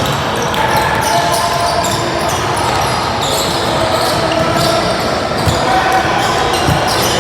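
A basketball bouncing during a game, over a steady mix of players' and spectators' voices.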